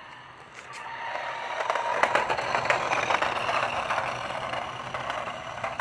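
Toy car rolling across the ground, its plastic wheels scraping and rattling. It gets louder about a second in, is loudest around the middle and tapers off near the end.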